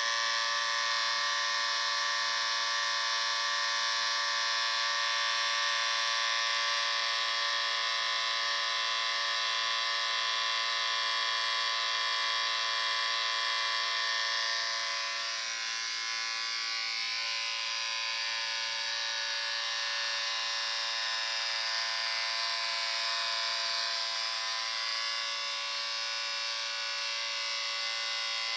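Electric shaver running continuously, a steady motor buzz with many overtones. About halfway through it drops slightly in level and changes its tone a little.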